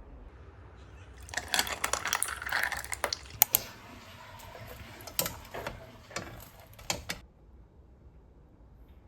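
A run of quick clicks and rattles with a few sharp knocks, starting about a second in and stopping about seven seconds in.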